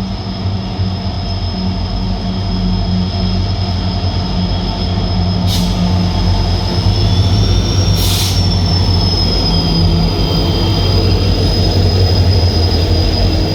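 Twin WDG-4 diesel locomotives, with two-stroke EMD 710 engines, running with a deep steady drone as they arrive, over a continuous high-pitched wheel squeal. Two short bursts of hiss cut in about five and a half and eight seconds in, and the sound grows slightly louder as the train draws nearer.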